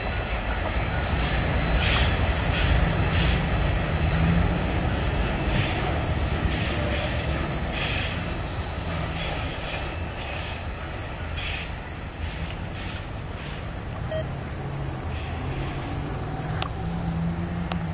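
Circus train's flatcars rolling past on the rails and away: a steady rumble of wheels on track, with a few clicks over rail joints in the first seconds, slowly fading as the train recedes.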